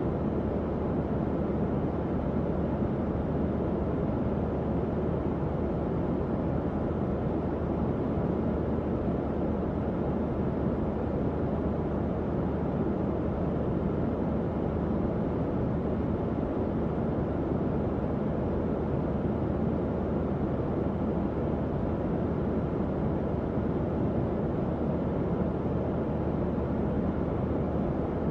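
Tower fan running steadily: an even, low whoosh of moving air with a faint low hum underneath.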